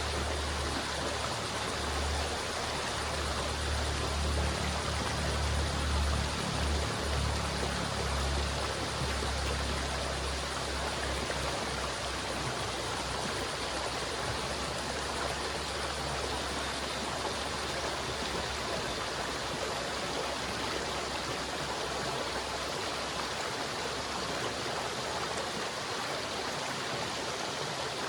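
River water flowing steadily, a continuous rushing. A deep low rumble underneath swells during the first ten seconds or so, then fades away.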